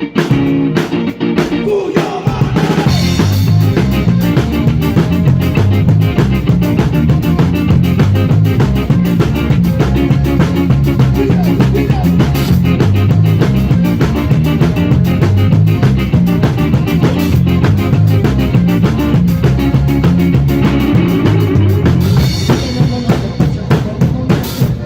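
Live rock band playing an instrumental passage. A sparser opening with a steady beat gives way about two seconds in to the full band: drum kit, bass and electric guitar together.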